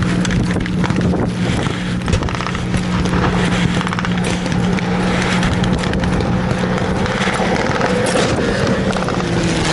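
An engine drones steadily, with scattered clicks and clatter over it. Its low steady pitch fades a little before the end.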